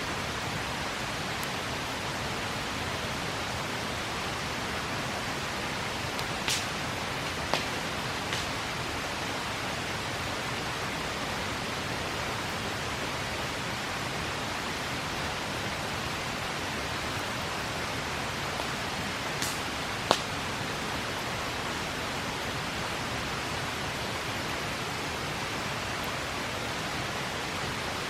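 Steady rush of a river, with a few sharp pops and crackles from a campfire, the loudest about twenty seconds in.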